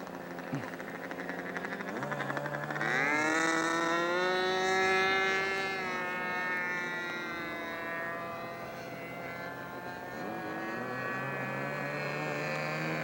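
Radio-controlled model seaplane's glow engine running in flight, its pitch rising and falling as it changes throttle and passes by, with a sharp rise about three seconds in.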